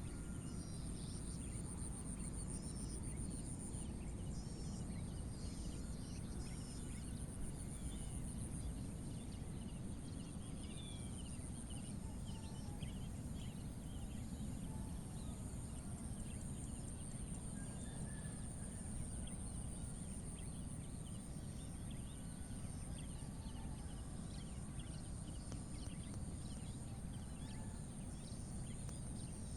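Countryside dawn ambience: a steady high-pitched drone of insects, pulsing at times, with many small birds chirping all through, over a low wind rumble on the microphone.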